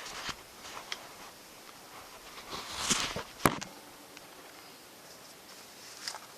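Handling noises: rustling and scattered light clicks, with a louder rustle about three seconds in and a single sharp click just after it.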